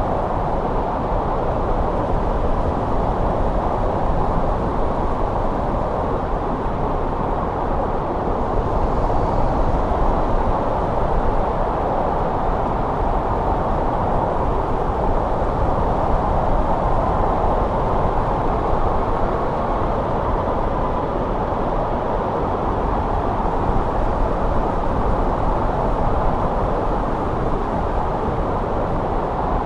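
Steady snowstorm wind: an even rushing noise with a low rumble beneath, swelling slightly now and then.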